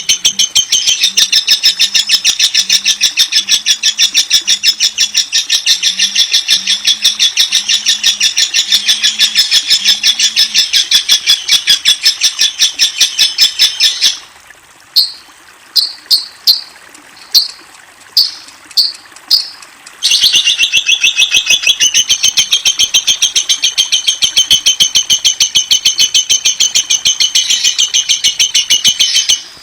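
Lovebird chattering in a long, rapid run of high, evenly repeated chirps. About halfway it breaks into a few separate chirps, then the fast chatter starts up again for the rest of the call.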